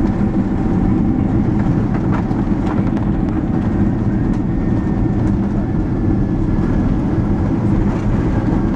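Cabin noise of a Boeing 767-300 landing: a loud, steady low rumble with a few light knocks.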